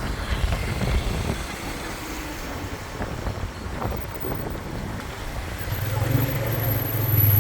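Motorbike riding through traffic: engine running under wind and road noise. About six seconds in, a steady low engine drone grows louder, along with a thin high-pitched whine.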